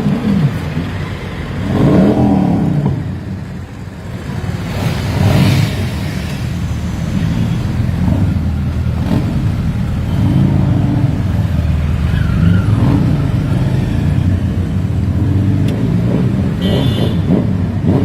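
Superbike engine revving, its pitch rising and falling several times over a steady engine note.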